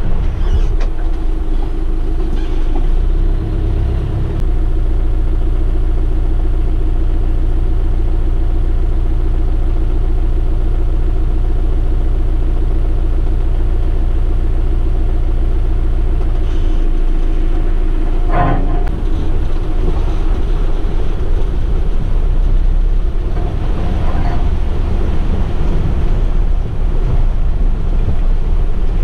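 A 4x4's engine running, a steady low rumble with a steady hum above it. The low end shifts about four and seventeen seconds in.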